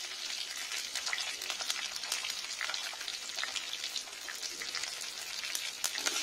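Capsicum chunks with chopped garlic and ginger frying in hot mustard oil in a kadai: a steady sizzle with many small crackles and pops.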